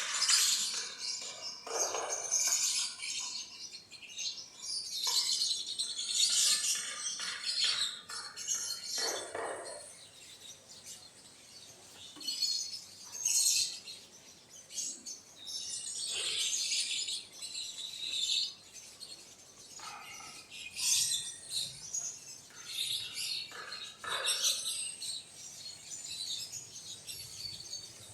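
Birds chirping repeatedly in short high bursts every second or two, with a few lower sweeping calls among them.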